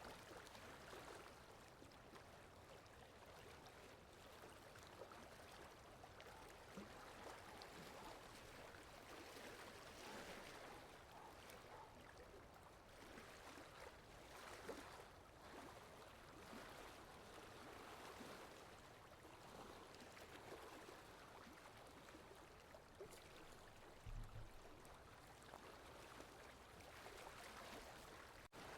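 Faint, steady rain ambience: an even soft hiss of falling rain with scattered light patter. A brief low thump about four-fifths of the way through.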